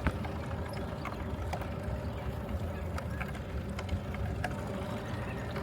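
Steady low rumble of wind and motion on the microphone while riding a bicycle, with scattered light clicks and rattles every half second or so.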